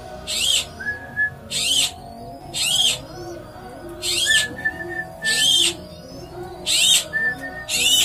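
Birds calling: a loud, short, high call repeats about every second, over softer lower calls.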